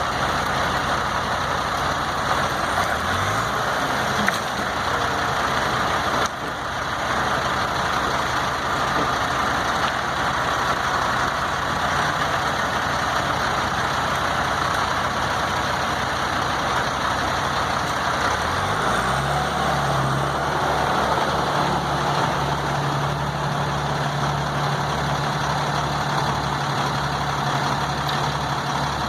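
Freightliner truck's diesel engine running under steady road noise. The engine pitch climbs about three seconds in and again near twenty seconds, then holds steady.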